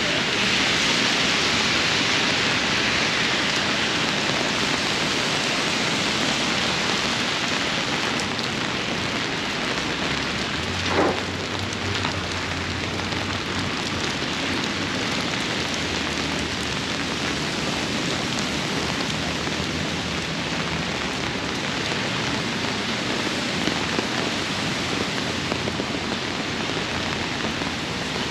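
Steady, heavy tropical-storm rain falling and splashing on surfaces, an even hiss, with one short sharp sound about eleven seconds in.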